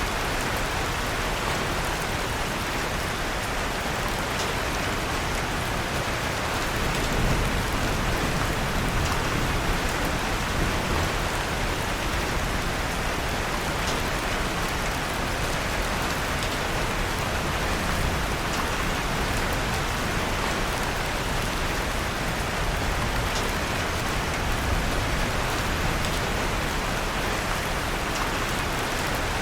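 Steady rain with a fireplace's crackle mixed in, an even hiss with a few faint ticks here and there.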